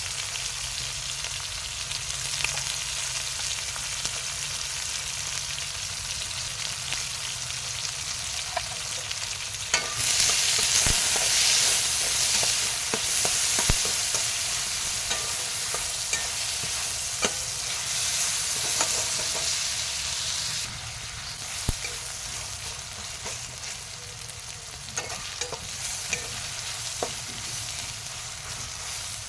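Chicken curry frying and sizzling in hot oil in a pan while a spatula stirs it, with occasional knocks and scrapes of the spatula on the pan. The sizzle gets louder about a third of the way in and eases off past the middle.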